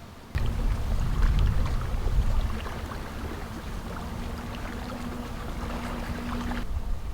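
Wind rumbling on the microphone over water lapping against a boat, with many small clicks and splashes. A faint steady hum comes through and grows stronger after about four seconds.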